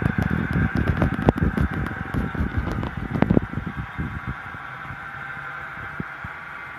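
OO gauge Bachmann Class 150 DMU model with a DCC sound chip running on a layout, its steady diesel engine sound humming along, with a flurry of irregular clicks and knocks over the first four seconds or so.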